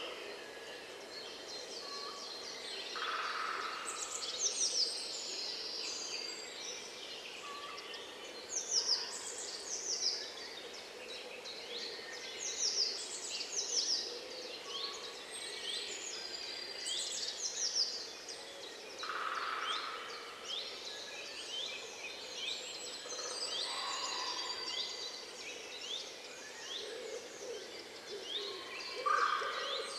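Many wild birds singing at once: a dense run of quick, high, falling chirps and trills. A lower call comes in a few times.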